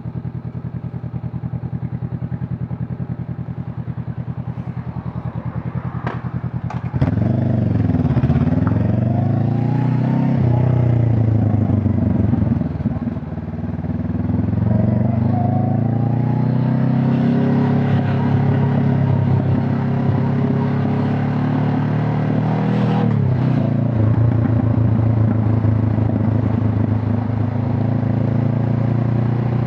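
Honda CB500 Hornet motorcycle exhaust: the engine runs steadily at low revs, then about seven seconds in the throttle opens and it gets louder, the pitch rising and falling through revs and a gear change around thirteen seconds, before it settles into steady running under load.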